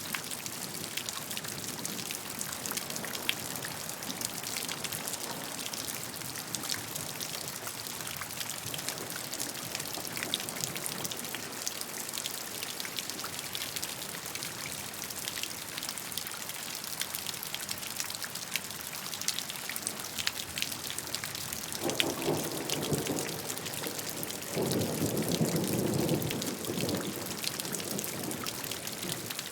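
Steady rain with many individual drops pattering on a surface. Two louder low rumbles come in about 22 and 25 seconds in, the second lasting a couple of seconds.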